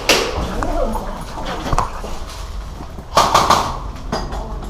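A dog barking a few times in short, loud bursts, the loudest about three seconds in.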